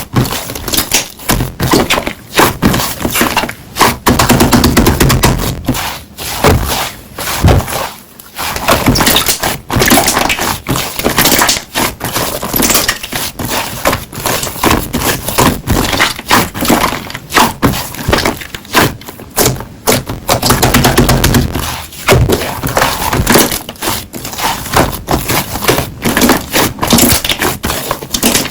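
Slime being squished and pressed by hand, full of irregular crackles and pops.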